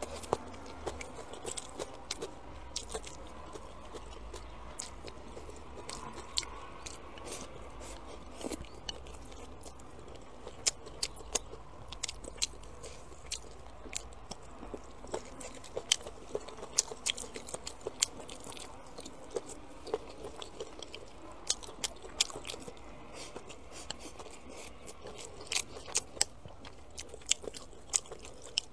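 Close-up eating: a person chewing and biting into stir-fried chicken feet, spicy tofu and vegetables, with many short, sharp, irregular crunchy clicks and smacks of the mouth.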